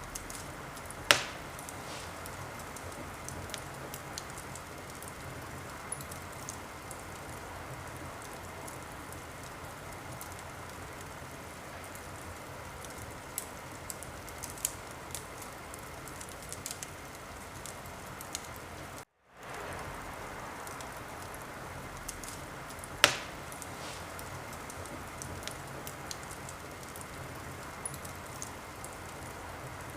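Wood fire crackling in a fireplace: a steady hiss with small scattered pops, and two louder sharp cracks, one about a second in and one about three-quarters through. The sound cuts out completely for a moment just past the middle.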